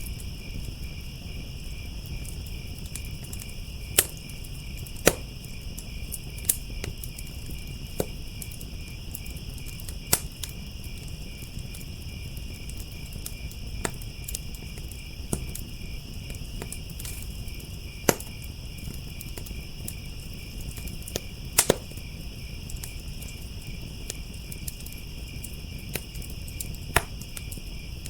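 Crickets chirping in a steady, fast-pulsing chorus over a low rumble from a wood fire, with sharp crackles and pops from the burning wood every second or few, a handful of them much louder.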